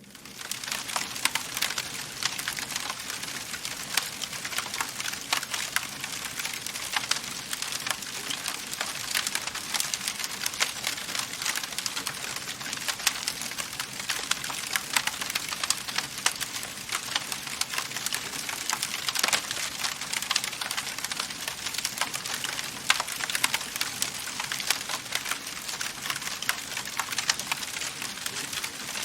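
Wood fire burning in a fireplace, crackling steadily: a constant hiss full of small rapid pops, with an occasional louder snap.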